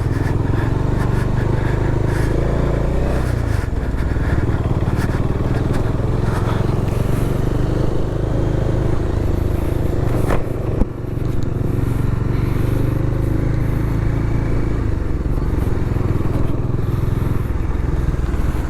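Bajaj Dominar motorcycle engine running under way, its note shifting a few times as the throttle changes, with a brief knock about ten seconds in.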